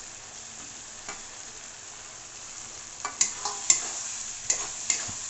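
Tomato and cashew masala sizzling in a kadhai, with a steady frying hiss. From about three seconds in, a steel spatula scrapes and knocks against the pan several times as the mixture is stirred.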